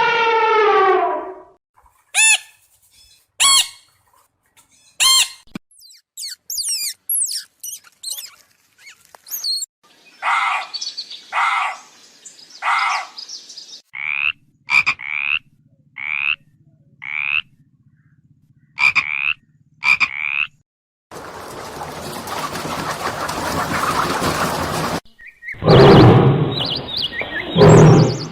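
A run of different animal calls one after another: a few sharp clicks, quick chirps, groups of short repeated calls, then a few seconds of rushing noise and a loud low call near the end.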